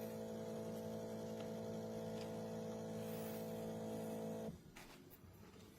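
De'Longhi Rivelia espresso machine running with a steady hum as it dispenses a latte, then stopping abruptly about four and a half seconds in as the drink finishes.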